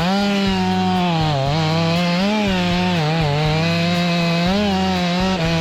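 Stihl MS500i fuel-injected two-stroke chainsaw running at high revs while cutting wood, its pitch dipping and recovering several times as the chain bites into the cut.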